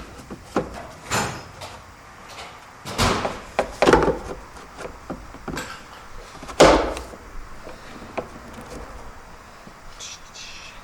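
Irregular knocks and clunks of tools and parts being handled while work goes on in an engine bay, the loudest about three, four and near seven seconds in.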